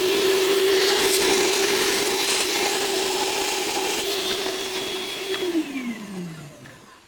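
Small high-speed electric motor running steadily with a rush of air, then switched off about five and a half seconds in, its pitch falling as it spins down.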